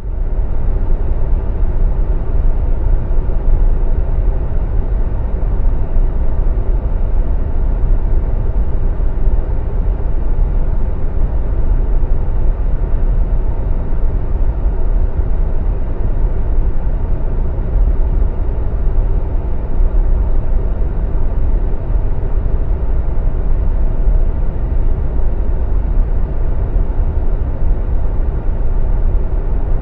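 A steady, unchanging low engine rumble with faint steady humming tones.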